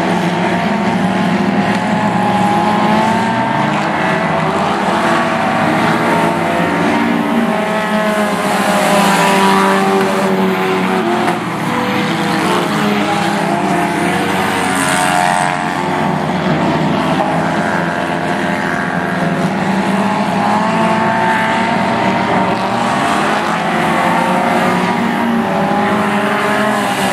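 Several stock-car engines racing together at high revs, their pitches wavering up and down as the cars work through the laps.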